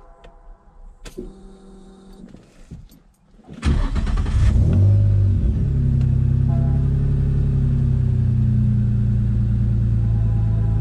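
Turbocharged Infiniti G35's VQ35 V6 starting warm, about a third of the way in, after a few faint clicks. It flares briefly on catching, then settles into a steady idle.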